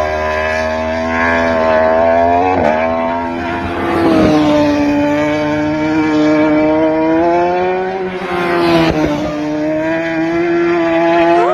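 Racing motorcycle engine running hard at high revs, its pitch holding steady and then dipping and climbing again a few times, as with gear changes.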